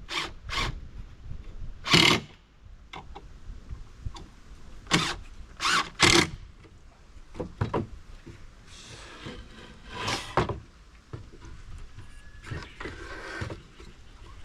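A series of sharp knocks and clatters, about seven, the loudest about two seconds in and around five to six seconds in, with stretches of rustling between them.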